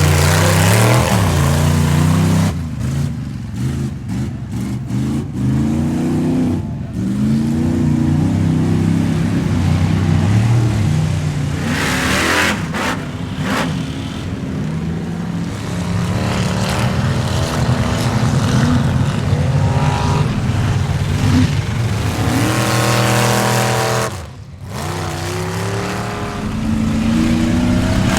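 Square-body Chevy mud truck's engine revving hard under load in a mud bog, the pitch climbing and falling again and again, with a brief let-off near the end.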